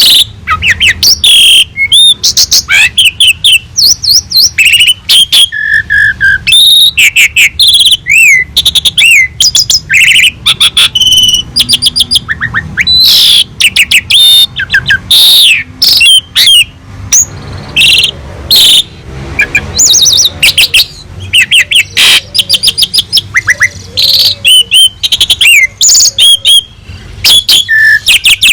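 Asian pied starling (jalak suren) singing loudly without pause: a fast, varied run of clear whistles, rising and falling glides, chirps and rapid clicking notes.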